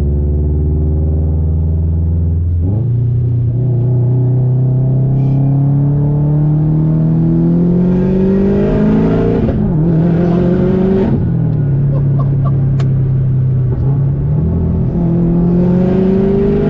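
Turbocharged EJ25 flat-four of a 500 hp Subaru WRX, heard from inside the cabin under hard acceleration. The revs climb steadily for several seconds, fall at a gear change about ten seconds in, hold steady, then climb again near the end.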